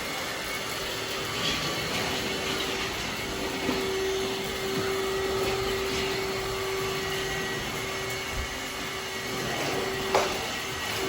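Vacuum cleaner running with a steady hum and whine, and small knocks as it is pushed about, with one sharper knock about ten seconds in.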